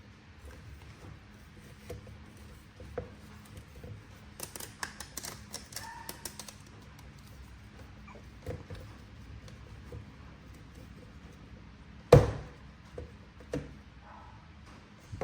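Handling noises from unboxing: scattered small clicks, taps and rustles of plastic packaging and a toy action figure, with a sharp thump about twelve seconds in.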